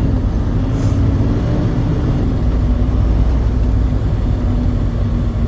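Steady low rumble of a truck's engine running, with a faint steady hum above it.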